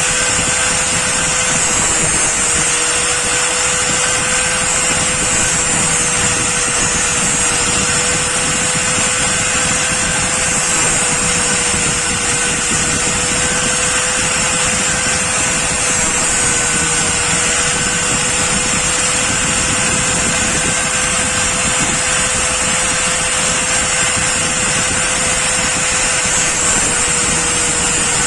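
Electric power tool running steadily at constant speed, a steady hum under a continuous hiss, with no breaks or changes in pitch.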